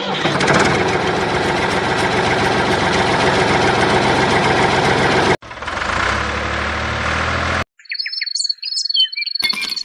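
A steady engine running for about five seconds, cut off abruptly, then two more seconds of running with a low hum. High chirping calls that glide in pitch follow near the end.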